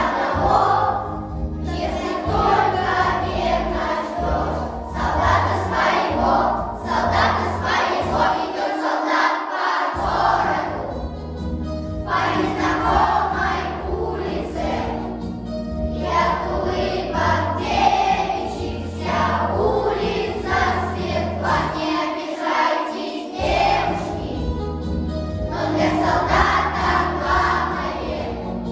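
Children's choir singing in unison over instrumental accompaniment, the bass dropping out briefly twice.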